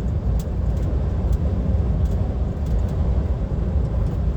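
In-cab noise of a DAF XF 530 lorry cruising on the motorway: a steady low rumble of the diesel engine and tyre and road noise.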